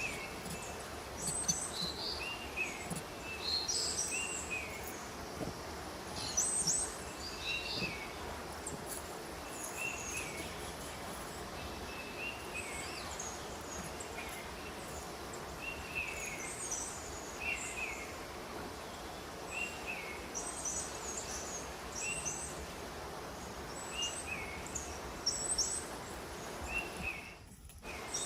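Small birds chirping, short calls repeated every second or two over a steady outdoor background hiss.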